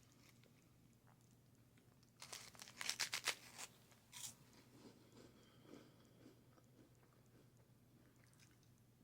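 Close-up crunching and chewing of a crunchy snack in the mouth: a quick run of loud crunches a couple of seconds in, one more crunch soon after, then softer chewing.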